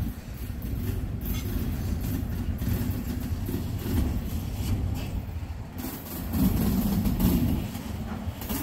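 Freight train of autorack cars rolling past on a curved track: a steady low rumble of steel wheels on the rails, louder for about a second a little past the middle.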